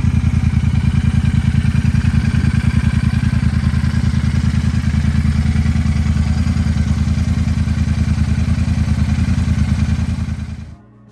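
A loud vehicle engine running steadily at idle, with a fast, even pulse and no revving, that dies away shortly before the end.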